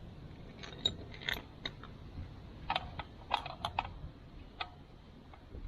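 Irregular metallic clicks and knocks of a hand tool being worked onto a stuck motorcycle oil filter, about a dozen short taps clustered near the middle.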